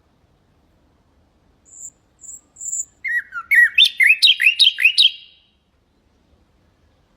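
Nightingale singing one phrase: three short, faint high notes, then a loud, rapid run of repeated rising notes lasting about two seconds.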